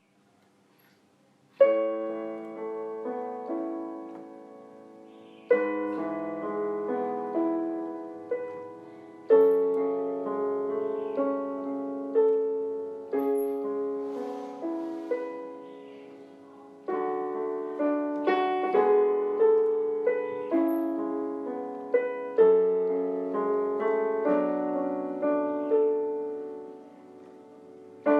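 Solo piano music, a slow gentle melody in struck notes that ring and fade, starting about a second and a half in.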